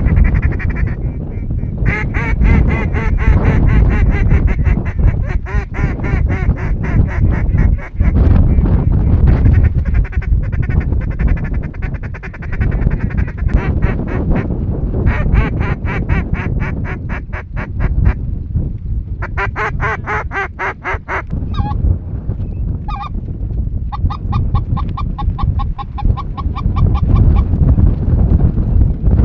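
Geese honking and ducks quacking in rapid, overlapping calls that come in several bouts with short breaks, over a steady low rumble.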